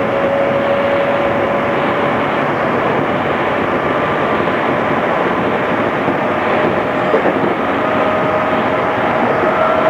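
JR East 211 series electric train heard from inside the passenger car while running: a steady rumble of wheels on rail with a motor and gear whine. The whine dips slightly, then rises in pitch in the second half as the train picks up speed. The sound is dull, with the treble cut off as on a cassette recording.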